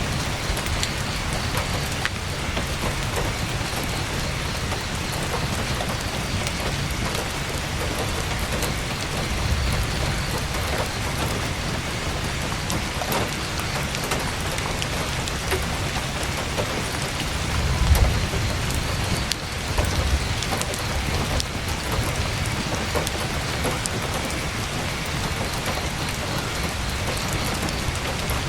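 Heavy rain pattering steadily on a tent's canvas. A low rumble swells and fades about two-thirds of the way through, with weaker ones before and after it.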